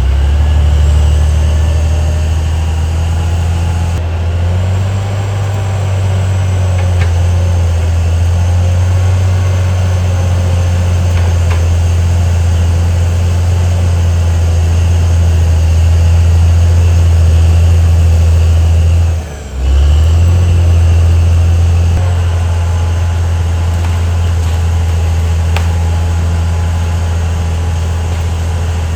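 Caterpillar D6R XL bulldozer's diesel engine running with a steady, deep drone; it dips out briefly about two-thirds of the way through.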